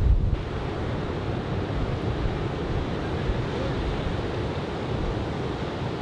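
Surf breaking and washing ashore from a typhoon swell, a steady rushing wash, with wind buffeting the microphone in low rumbles at the start.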